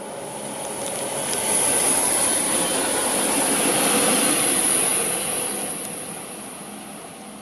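A Bayerische Regiobahn Alstom Coradia LINT diesel multiple unit (class 648) passing on the line. It grows louder as it approaches, is loudest for a few seconds as it goes by, then fades as it pulls away, with a high hiss from wheels and rails throughout the pass.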